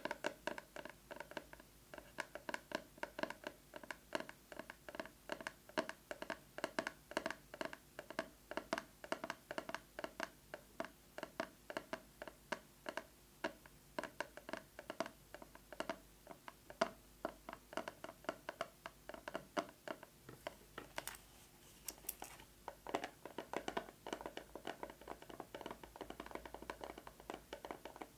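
Fast fingernail tapping on a plastic box with a metal cover: a rapid, uneven run of sharp clicks with a faint ringing tone from the box. A little past two-thirds of the way through, the strokes turn denser and more scratchy.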